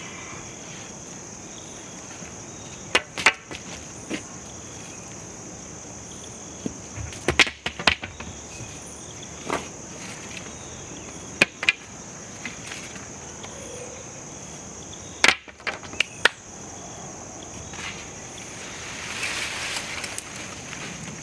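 Crickets chirping steadily in the background, over a series of sharp clanks and snaps from a rusted metal trellis with chicken wire being wrestled out of a garden bed. A rustling stretch comes near the end.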